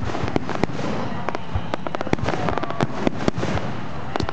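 Fireworks display: a fast, irregular run of sharp bangs and crackles over a steady rumble, with a few faint whistles near the middle.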